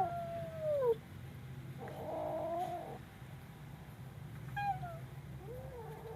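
Frightened kitten crying: a long falling cry that ends about a second in, a rougher, wavering yowl about two seconds in, then a short falling meow and a faint one near the end.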